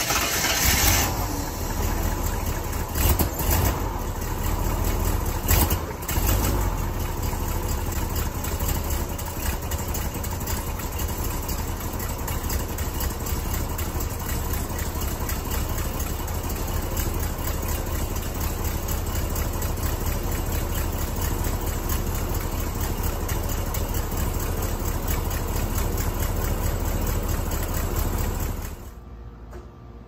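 1984 Chevy K30 truck's V8 engine running, with a few brief louder surges in the first several seconds, then settling into a steady idle. The sound drops away sharply about a second before the end.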